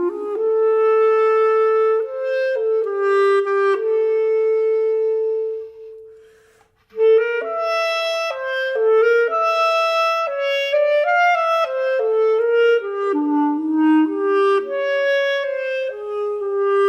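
Solo woodwind instrument improvising a single melodic line. Long held notes give way to a note that fades into a brief pause about six seconds in; then a sharp, loud re-entry leads into quicker runs of notes.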